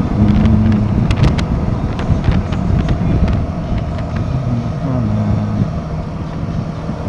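Royal Enfield Himalayan 450's single-cylinder engine running on the move, its pitch stepping up and down a few times, with wind buffeting the microphone. A few sharp clicks about a second in.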